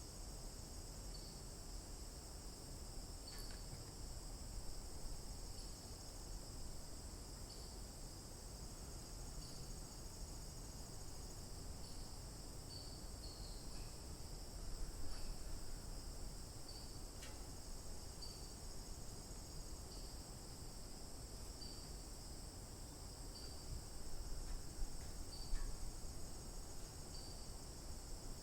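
A steady, high-pitched chorus of insects, with short chirps repeating every second or two on top.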